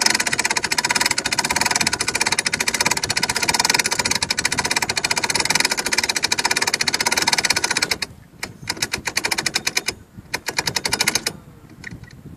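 Loud, rapid continuous rattling clatter that breaks into a few short bursts and stops near the end.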